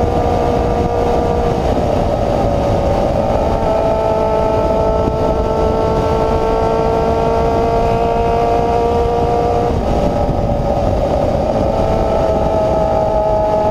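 Honda CB-1 400's inline-four engine with an open free-flow exhaust, running at steady revs with a rough rushing noise underneath. The engine note holds steady and shifts pitch in a few steps, about two seconds in, near four seconds and again about ten seconds in.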